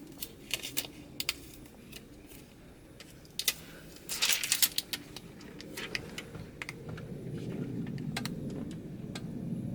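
Backing being peeled off a plastic electrostatic windshield sheet: scattered crackles and ticks, thickest about four seconds in. A low rumble builds through the second half.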